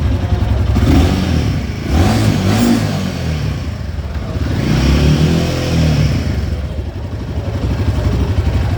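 Royal Enfield Himalayan 450's single-cylinder engine idling and revved twice, about a second in and again around the middle, each rev rising and falling back to idle.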